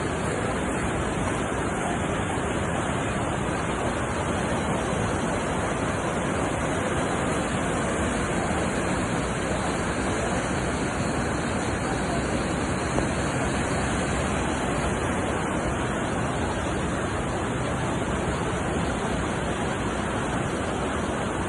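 Floodwater rushing in a steady, unbroken stream of noise.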